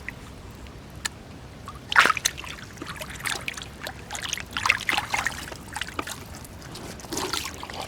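Shallow water splashing and trickling in irregular small splashes, with one louder splash about two seconds in.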